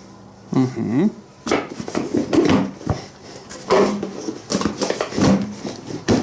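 Irregular knocks, clicks and clatter of motorcycle parts being handled and fitted back on. A short squeak bends up and down about half a second in.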